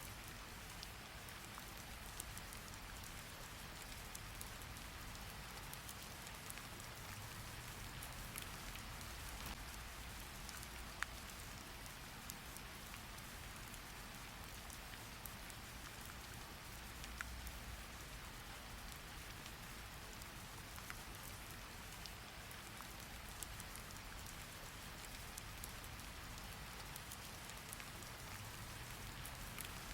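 Steady rain falling, an even hiss with a few scattered sharp clicks.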